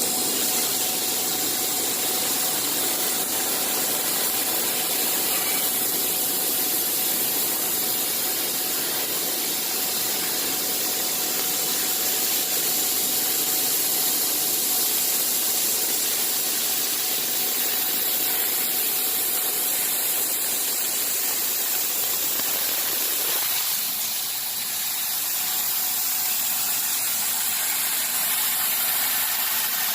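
Industrial CNC machine running: a steady hiss with a faint constant whine. About 23 seconds in, the lower part of the noise drops away while the hiss continues.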